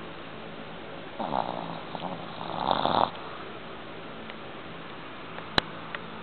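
A sleeping Boston terrier snoring: two rasping snores about a second apart, the second louder and swelling until it stops abruptly. A single sharp click comes near the end.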